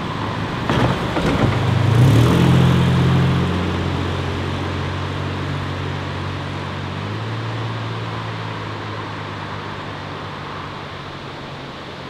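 Ford Capri Mk3 engine pulling away and accelerating past, its note rising about a second in and loudest around two to three seconds. The pitch then steps down twice as the car drives off, the sound slowly fading.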